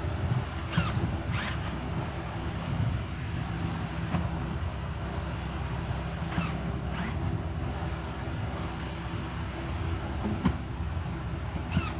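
Electric motor of a Mercedes-Benz GL550's power-folding third-row seat running steadily as it drives the backrest, with a few brief squeaks. The newly fitted replacement motor is working, without clacking.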